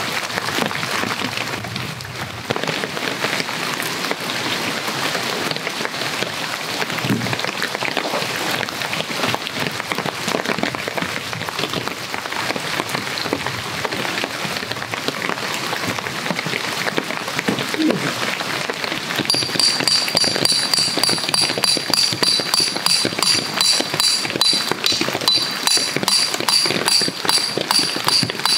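Steady rain falling on leaves and the forest floor. About two-thirds of the way through, a rhythmic high-pitched ringing joins in and becomes the loudest sound, pulsing a few times a second.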